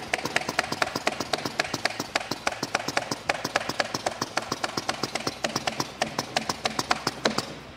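Rapid, even tapping or knocking, about seven sharp knocks a second, that stops abruptly near the end.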